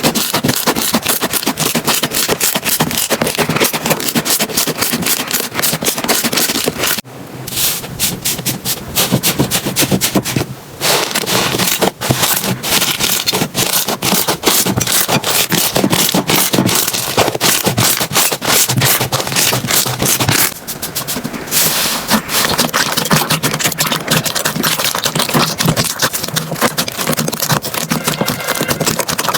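Slime being squeezed and worked close to the microphone: dense crackling and popping clicks, broken by a few short dips where one clip gives way to the next.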